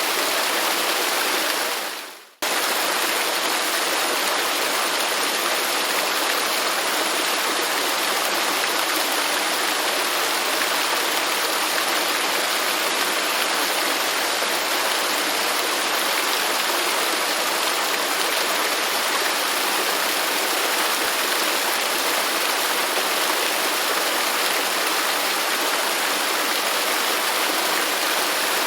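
Steady rushing of a waterfall. About two seconds in, the sound fades quickly to near silence and cuts straight back in, as at the seam of a looped recording.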